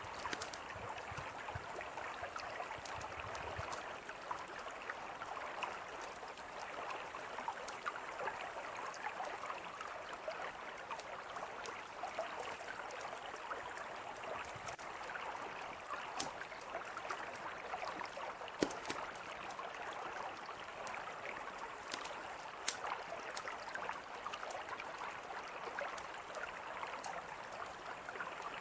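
A mountain river flowing with a steady rush, with a campfire crackling over it in scattered sharp pops, two of them louder about two-thirds of the way in.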